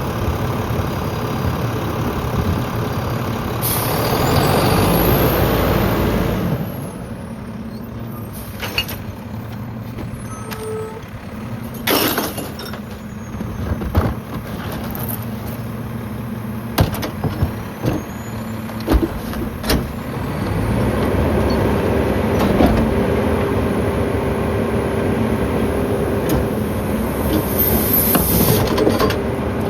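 Mack LEU garbage truck with a McNeilus rear-loader body running its packer: the engine speeds up to drive the hydraulics while the packing blade cycles, with a faint whine rising and falling. Sharp metal clanks and a brief hiss of air come through the middle, and the engine speeds up again for the next stroke.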